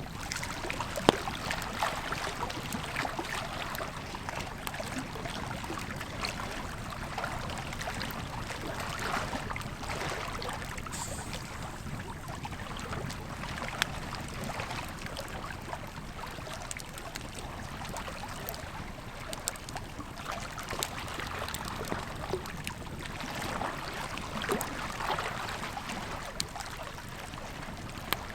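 Campfire crackling, with scattered sharp pops (the loudest about a second in), over the steady rush of a flowing river.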